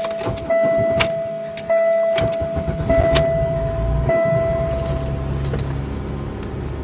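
Oldsmobile LSS's 3.8-litre V6 on a cold start: the starter cranks and the engine catches about four seconds in, then settles into a steady idle. An electronic dashboard chime pulses about once a second over the cranking and stops shortly after the engine starts.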